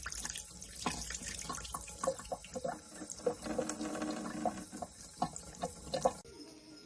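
Water running and splashing, with many small spatters and clicks, cutting to a quieter sound about six seconds in.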